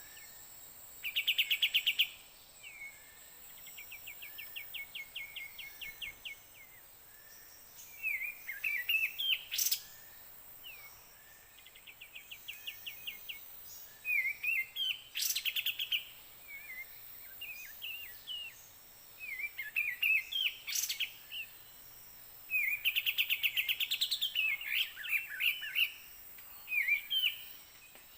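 Kapas tembak bulbuls calling: repeated bursts of chirping notes mixed with fast rattling trills, with a few sharp, loud notes.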